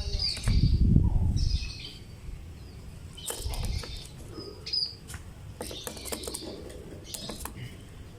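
Lovebird calling in short, shrill chirps, several scattered calls with sharp clicky edges. A loud low rustle comes about half a second in and lasts about a second.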